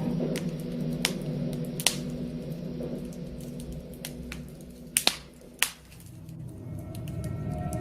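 Wood fire crackling: scattered sharp pops and snaps over a low steady rumble. Music comes back in near the end.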